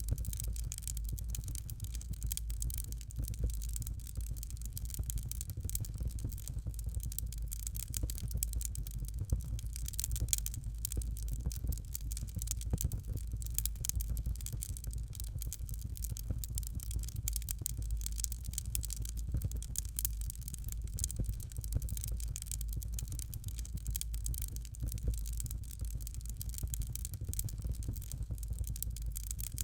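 Fire crackling in a fireplace: a dense, steady stream of small pops and snaps over a low rumble.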